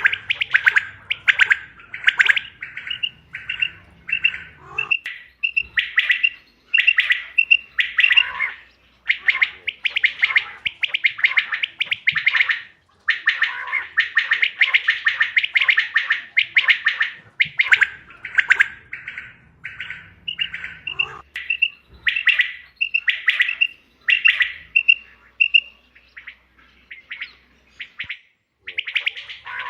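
Quail calling, as played to lure quail for hunting: bursts of rapid, rattling chirps alternate with runs of short, clear piping notes.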